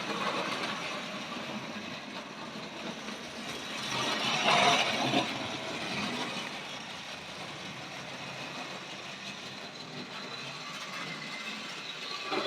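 Hornby model train running along the track: the small electric locomotive's motor and wheels on the rails, with a louder stretch about four to five seconds in.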